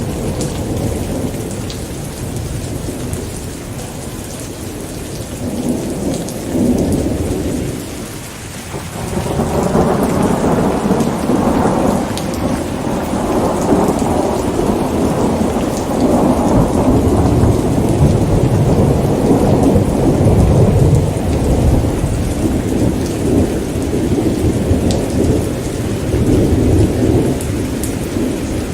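Steady rain falling, with thunder rumbling underneath. The rumble fades briefly about a third of the way in, then swells into a long rolling peal that carries on to the end.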